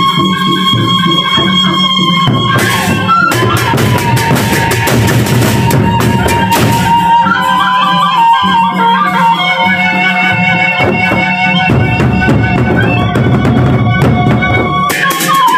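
Gendang beleq ensemble playing: large drums beating with crashing cymbals over a sustained high melody line that slides in pitch.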